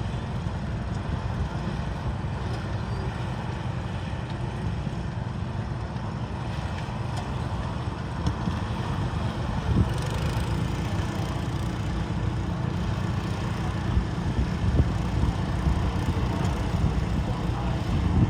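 Garden tractor engine running with a steady low rumble, growing somewhat louder about halfway through, with a single knock near the middle.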